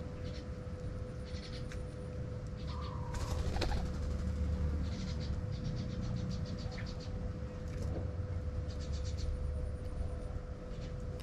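Birds calling, with repeated rapid high chirping trills and a short lower call about three seconds in, over a steady low hum.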